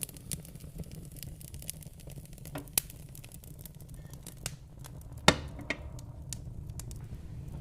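Fire burning in a fireplace: a low steady rumble with scattered crackles and a few sharp pops, the loudest about five seconds in.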